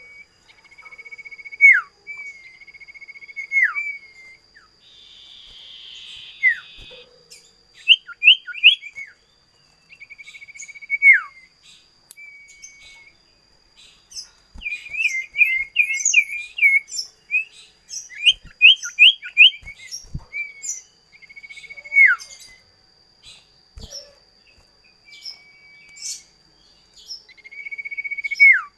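Common iora singing: long, held whistled notes that each end in a sharp downward drop, repeated several times, with a run of quick chattering notes about halfway through. A faint steady high-pitched whine runs underneath.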